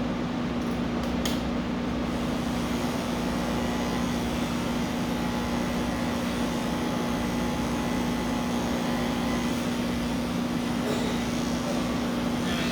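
Electric pet grooming clippers running with a steady hum while shaving a cat's coat.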